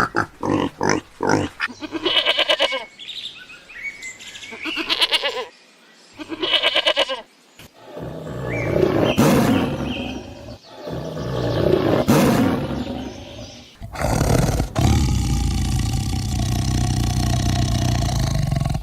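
A run of animal calls: a few short grunts, then three short high-pitched calls, then two long, rough, roar-like calls a few seconds apart, followed by a steady noisy stretch in the last few seconds.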